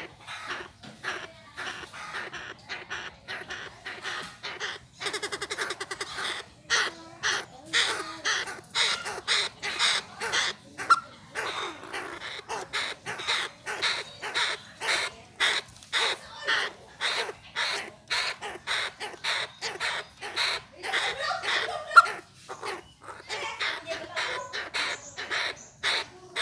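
Chinese francolin (đa đa) calling: a long run of short, harsh notes, about two a second. There is one sharp click late on.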